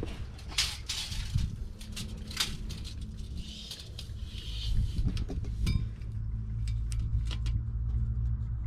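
Scattered light clinks and taps, as of metal tools or parts being handled, over a low steady rumble that grows louder in the second half.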